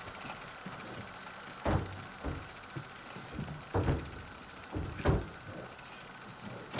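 A handful of dull knocks and thumps, about five spread over a few seconds, against a steady faint background hum.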